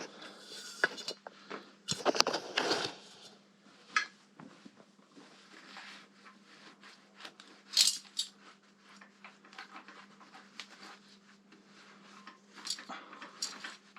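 Small metal parts and tools clinking and knocking as they are handled during work on a motorcycle's front end, in scattered irregular taps with a couple of louder knocks, over a faint steady hum.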